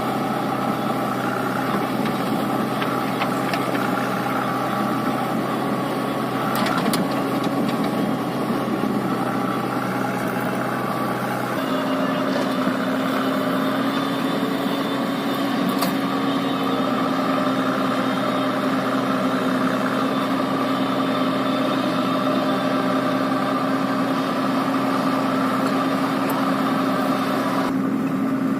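Diesel tractor engine running steadily; about 12 seconds in its note changes and settles into a steadier, higher hum.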